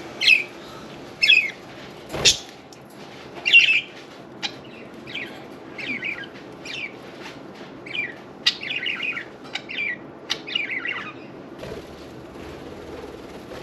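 Budgerigars chirping, a quick series of short, high calls, with a sharp, louder sound about two seconds in.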